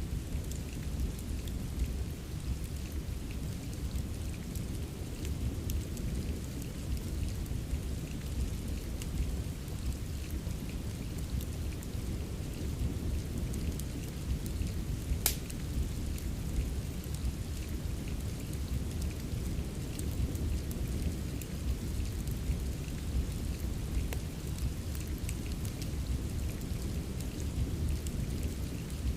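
Steady rain mixed with a crackling fireplace: a constant wash of rain over a deep low rumble, with scattered small crackles and one sharper pop about halfway through.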